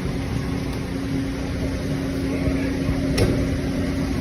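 Mercedes-Benz C36 AMG straight-six engine idling steadily, with a single sharp click about three seconds in.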